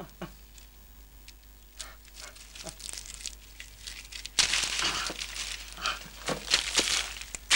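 Dry leaves and stony soil crunching and rustling in irregular crackles. Faint at first, then much louder and denser from about four and a half seconds in.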